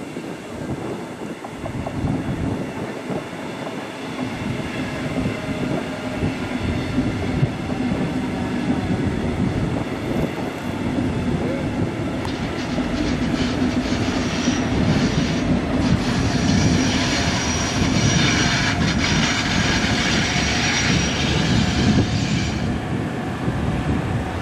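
Metronom electric regional train with double-deck coaches passing on the elevated line, its wheels rumbling and clattering, growing louder. From about halfway in, a high squeal rings out for about ten seconds, then stops.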